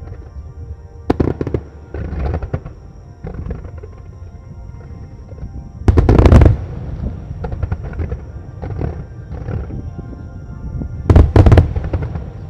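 Aerial firework shells bursting in a starmine, with sharp bangs in short clusters, the loudest about halfway through and again near the end, each followed by a low rumble. Music plays underneath.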